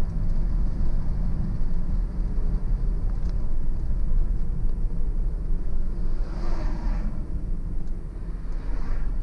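Steady low rumble of a car's engine and tyres on the road while driving, with a brief swell of higher hissing noise about six and a half seconds in and a smaller one near the end.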